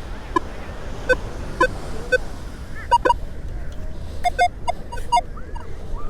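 Metal detector giving a run of short beeps at several different pitches, irregularly spaced, as the coil is swept over buried targets.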